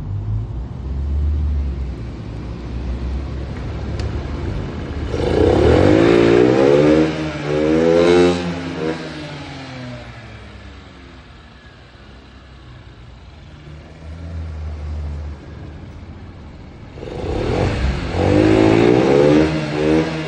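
Honda Zoomer AF58's 50cc single-cylinder four-stroke engine, fitted with a ZERO aftermarket muffler, idling and then revved in two quick blips about five seconds in. It settles back to a quieter idle and is blipped twice more near the end. It runs with no abnormal noises, as the seller states.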